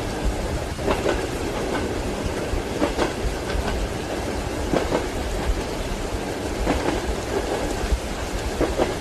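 Steady rain with a deep low rumble under it, and the wheels of a moving train clacking over rail joints every second or two.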